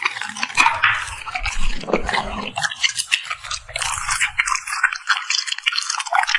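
A puppy eating, with a dense run of quick wet smacking and chewing clicks from its mouth.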